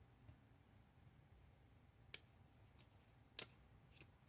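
Near silence with three short clicks at irregular spacing, the loudest a little past the middle: small magnets being set in place on the back of a resin piece.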